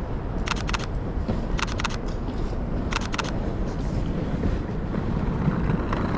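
Three double clicks of a Lumix S5 mirrorless camera's shutter, about a second apart, over a steady low rumble of wind on the microphone and city background.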